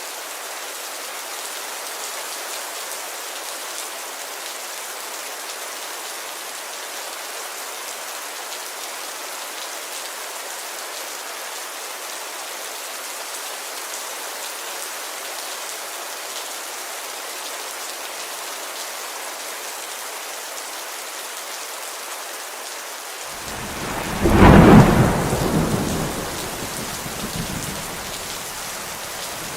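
Steady rain pattering on a window. About 24 seconds in, a loud thunderclap breaks out and rumbles away over the next few seconds.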